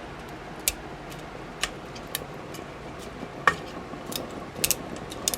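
Irregular light clicks and taps of a utensil and dry spaghetti against a Presto electric kettle as the spaghetti is pressed down into the liquid, the loudest tap about three and a half seconds in.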